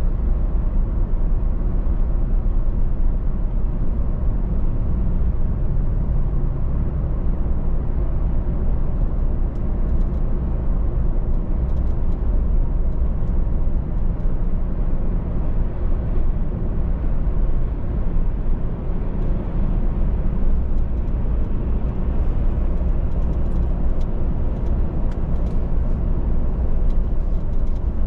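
A moving car's steady road noise: a constant low rumble of tyres and engine with no change in pace.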